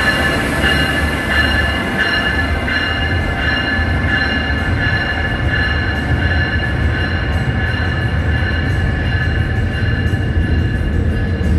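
Amtrak electric passenger train running by, a continuous low rumble under a high-pitched whine that swells about once every two-thirds of a second. In the second half, fast rail clicks from the wheels join in.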